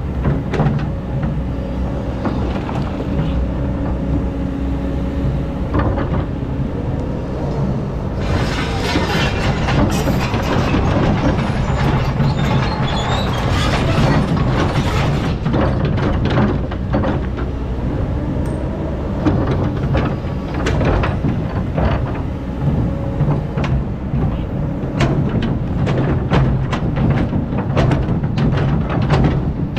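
Excavator's diesel engine running steadily, with scattered knocks and clanks. A hissing rush lasts several seconds in the middle.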